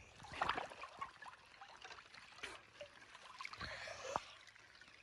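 Water gently sloshing and trickling around people sitting in an ice-cold dip, with soft irregular splashes, a little louder about half a second in and again near the end.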